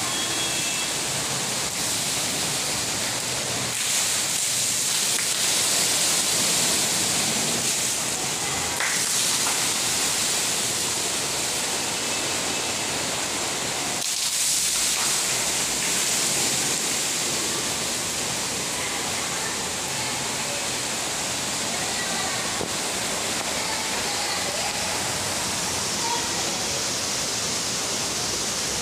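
Steady rushing hiss of a heavy downpour and running water, swelling a little a few seconds in and again about halfway through.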